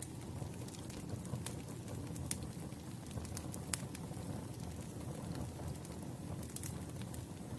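Campfire of burning wood: a steady low rush of flames with scattered sharp crackles and pops, a few louder pops standing out.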